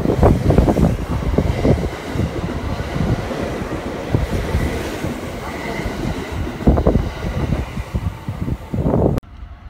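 Electric limited-express train running past along a station platform: a heavy rumble and clatter of wheels on rail, with a thin steady high whine for a few seconds. The sound cuts off suddenly near the end.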